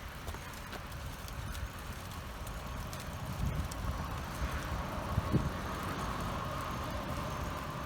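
Car engine idling as a steady low rumble, with a faint steady whine coming in about halfway through.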